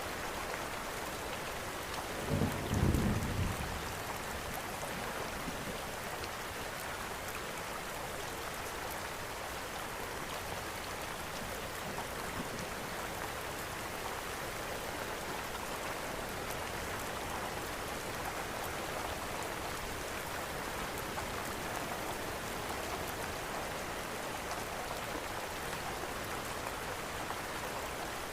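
Steady rain with a fireplace crackling, and a short low roll of thunder about two to three seconds in, the loudest moment.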